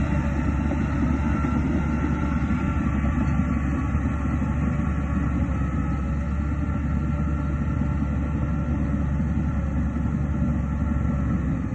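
Shantui DH17C2 bulldozer's diesel engine running steadily, a constant low drone that does not rise or fall.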